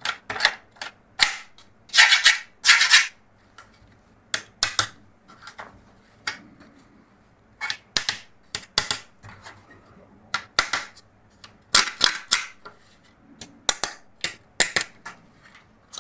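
Plastic toys being handled: irregular sharp clicks and short scraping rustles, a dozen or more scattered unevenly, with a longer run of them about two to three seconds in.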